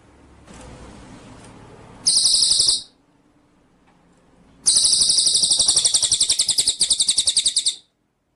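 Songbird song: a high, fast pulsing trill of under a second, then after a pause a longer trill of about three seconds that cuts off sharply, over a faint hiss.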